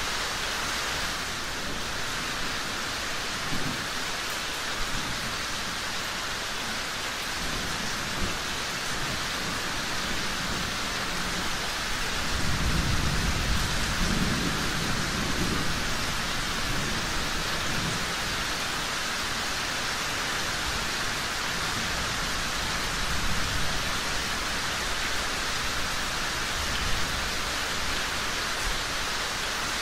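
Steady rain falling, with a low rumble of thunder rolling in about twelve seconds in and fading over a few seconds.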